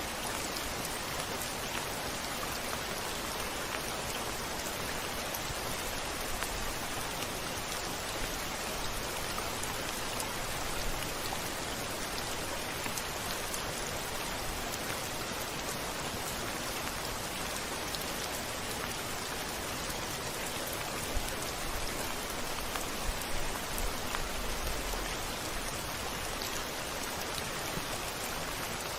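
Steady rain falling, a dense even hiss with fine scattered drop ticks, and a brief faint low rumble near the end.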